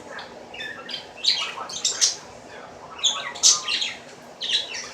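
A bird squawking and chirping in short, sharp calls that come several times at uneven intervals.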